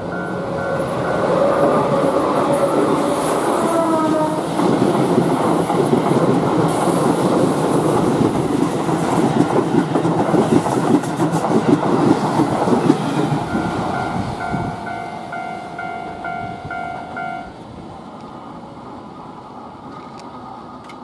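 A Keihan 3000 series electric train passes close by at a level crossing. It makes a loud rumble of wheels and carriages with a run of rapid clacks over rail joints, and a brief falling tone is heard about four seconds in. The level crossing's electronic warning bell rings in a steady repeating pattern at the start and again once the train is by, then stops about four-fifths of the way through, leaving the train fading away.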